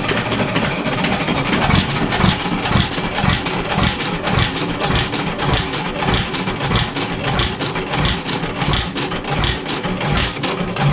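Stickney 7 hp hit-and-miss engine running at low speed, with an even knocking beat of about four a second.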